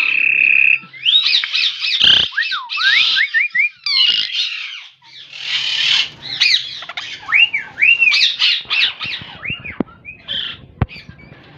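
Male plum-headed parakeet calling: a quick run of squawks, chirps and short whistled notes that swoop up and down in pitch, with gaps between phrases. A steady high-pitched tone sounds through the first second.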